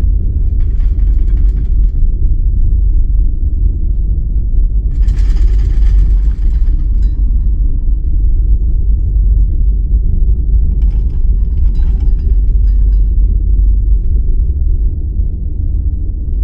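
Deep, steady earthquake rumble, with bursts of rattling every few seconds as things shake.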